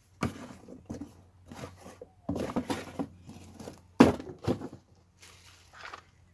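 Parts and packaging of a new chainsaw being handled while unboxing: a string of knocks and rustles, the sharpest knock about four seconds in.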